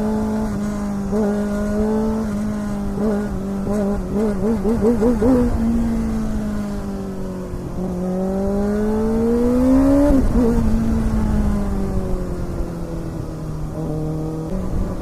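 Kawasaki ZX-6R inline-four engine running under way, over steady wind rush. The revs hold steady, waver quickly about four to five seconds in, climb for a couple of seconds, then drop off suddenly about ten seconds in.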